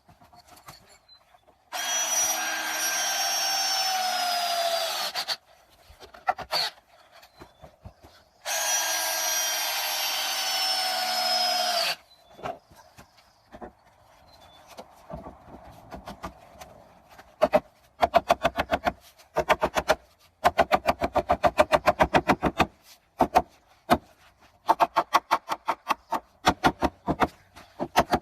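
A power tool runs twice for about three and a half seconds each time, its pitch sagging slightly as it works. Later come runs of quick, evenly spaced strokes on wood, several a second, with short pauses between the runs.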